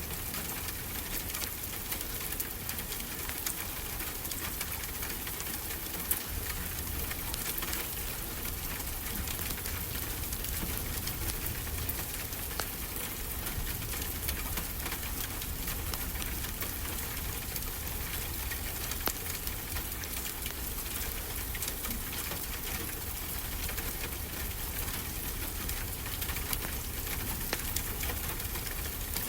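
Wood fire crackling with many small scattered pops over a steady rush of ocean surf.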